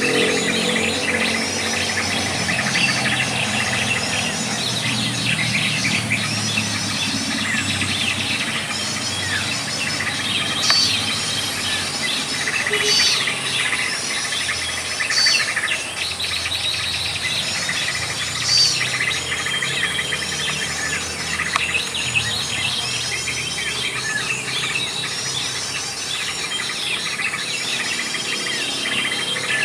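Many small birds chirping and calling over each other in a dense chorus, with short high call phrases repeated every second or two.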